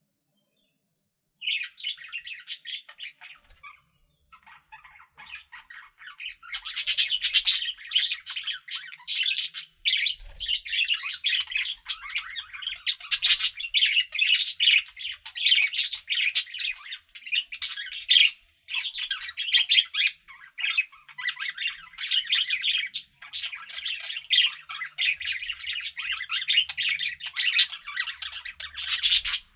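Budgerigars chattering: a dense, rapid warble of chirps and squawks that starts after about a second and a half of silence and carries on with only brief pauses.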